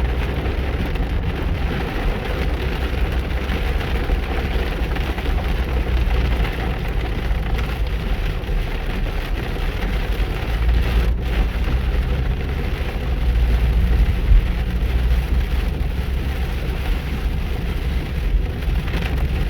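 Heavy rain falling on a car: a steady, dense hiss of rain over a low rumble from the car.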